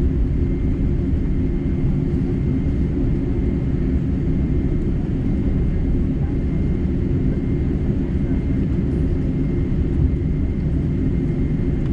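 Boeing 747-8's GEnx engines idling, heard inside the passenger cabin as a steady low rumble with a faint steady high whine.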